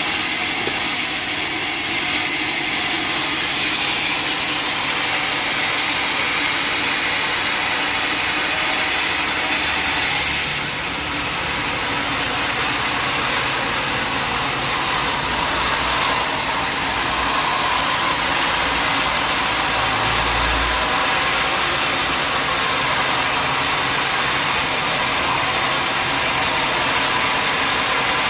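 Sawmill machinery running steadily, an engine-driven saw with a high hissing whine. The sound dips briefly about ten seconds in, and there is a short low rumble near twenty seconds.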